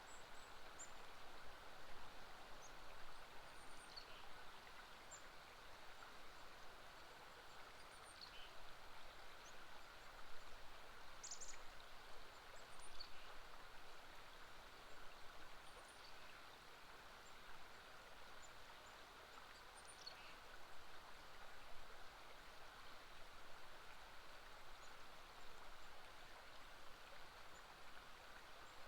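Faint, steady rush of a flowing river, with brief high bird chirps scattered through it every few seconds.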